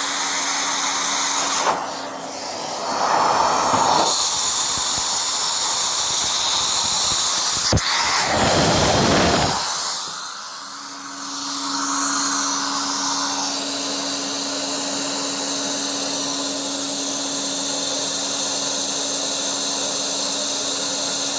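Vacuum cleaner running, drawing air through a motorcycle's throttle bodies for a balance check. The rush of air changes twice as the airflow is altered, about two seconds in and again about eight seconds in, with a sharp click near eight seconds. It then runs steadily with a steady hum.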